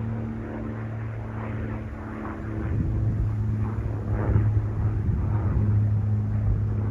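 Airliner engine noise: a steady low hum and rumble that grows louder about halfway through.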